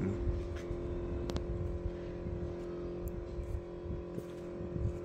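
Steady mechanical hum of a running motor with a low rumble underneath, and a few faint light clicks.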